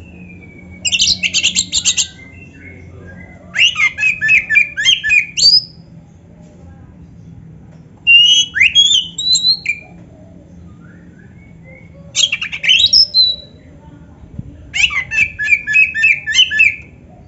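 Oriental magpie-robin (kacer) singing in five short bursts of rapid, repeated notes and whistles, each a second or two long, with pauses of about two seconds between them. The song is one filled with imitations of a canary.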